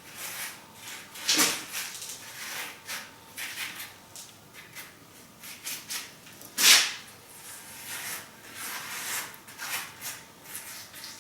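Scraping and rubbing sounds of hands working wet cement mortar around flagstone, with two louder scrapes, about a second and a half in and near seven seconds in.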